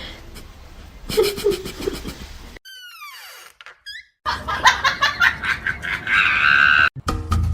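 People laughing in short rhythmic bursts. About two and a half seconds in, a falling whistle-like glide cuts in, and the laughing comes back louder.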